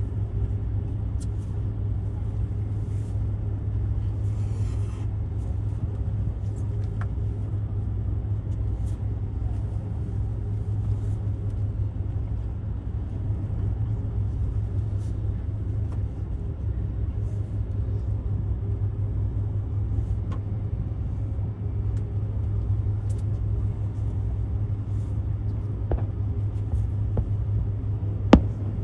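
A steady low rumble, with faint scattered clicks and crowd noise over it. Near the end a single sharp bang: a firework bursting.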